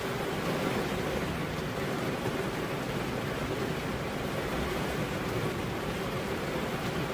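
Steady rain: an even, unbroken noise.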